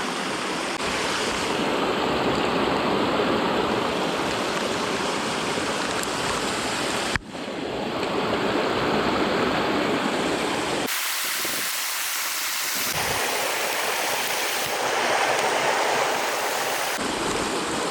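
Mountain stream rushing in a steady wash of water, its tone changing abruptly several times.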